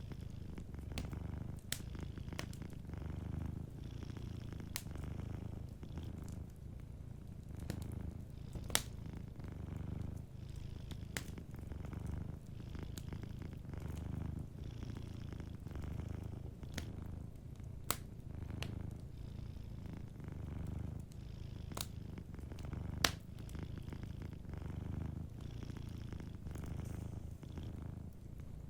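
A house cat purring steadily, a low rumble swelling and easing in slow, even waves as it breathes. Scattered sharp pops and crackles of a wood fire sound over it.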